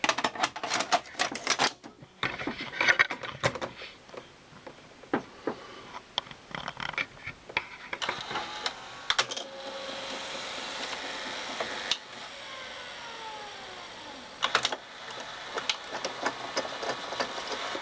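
Panasonic NV366 top-loading VHS recorder's tape-loading mechanism working, with repeated clicks and clatter from its freshly greased guide runners and gears. A motor whir runs through the middle and winds down, falling in pitch, about twelve seconds in.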